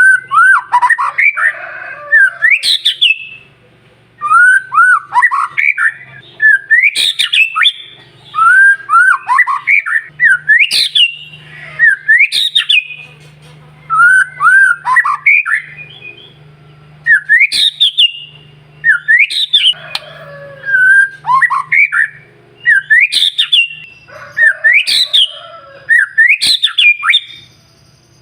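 White-rumped shama (murai batu) singing loud, repeated whistled phrases with sharp upward-sweeping and falling notes, a new phrase about every two seconds with short pauses between. It is a lure song of the kind used to provoke other shamas into singing.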